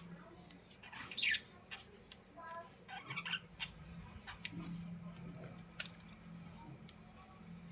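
A small bird calling: a sharp, falling squeak about a second in, then a few short chirps, among light clicks and a steady low hum.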